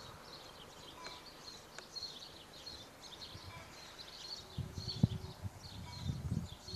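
Small birds chirping over open farmland, many short high calls repeating throughout. A few low thumps in the second half from the camcorder operator walking on dry ground.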